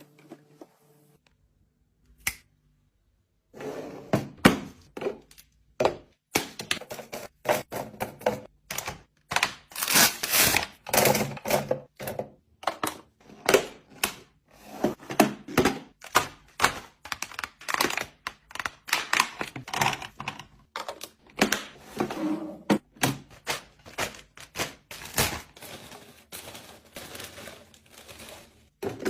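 Containers and food packages being handled and set down while a refrigerator is organized: a dense run of irregular clacks and thunks with rustling between them, starting a few seconds in.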